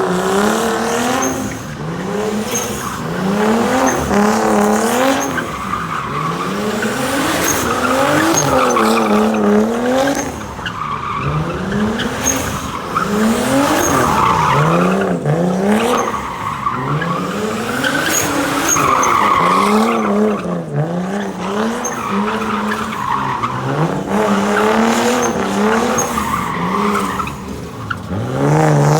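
A drifting car's engine revving up and down again and again, with its tyres squealing and skidding on the pavement.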